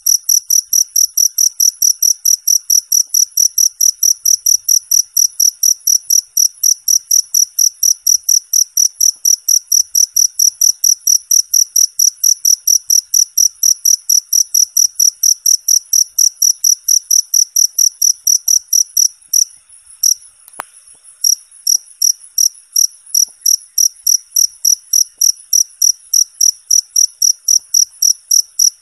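Cricket chirping in a steady, even rhythm, a loud high-pitched chirp repeated about three times a second, with a short break about twenty seconds in.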